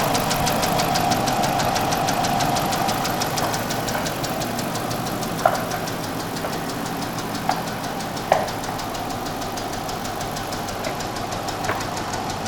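Police-package Dodge Charger engine running with a rapid, even ticking of about eight ticks a second, the sign of the engine issues it is being sold with. A steady whine fades over the first few seconds, and a few louder sharp clicks come through in the second half.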